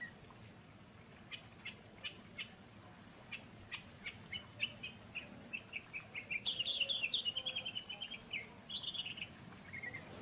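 A small songbird chirping: single short chirps repeated at uneven intervals, running into a rapid trilled phrase about six seconds in and a shorter one near nine seconds.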